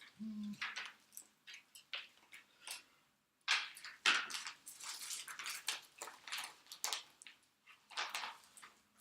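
A run of irregular clicks, knocks and rustles with no steady rhythm, busier and louder from about three and a half seconds in, and a brief low hum at the very start.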